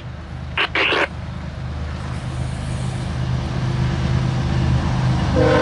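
Diesel locomotives of a loaded coal train approaching: a steady low engine rumble that grows louder throughout. Near the end a steady multi-tone chord starts, the locomotive horn sounding.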